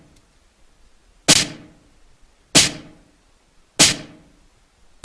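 A snare drum hit sample, cut from a drum loop, played back on repeat with a reverb effect. It sounds four times, about a second and a quarter apart, each a sharp crack that dies away in a short reverb tail.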